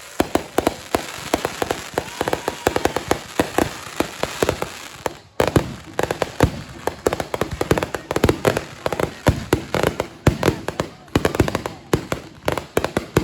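Fireworks going off in rapid succession: a dense barrage of bangs and crackling reports, several a second, with a brief lull about five seconds in.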